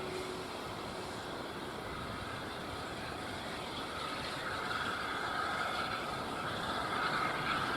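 Steam-hauled train running on the line, a steady noise with a higher-pitched band coming in about halfway through.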